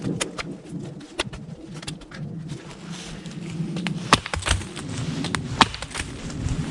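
A small 440C-steel drop-point knife, a Walther BNK 6, being batoned through wood: a baton knocking on the blade's spine in many quick irregular knocks, with a few harder strikes in the second half as the wood splits.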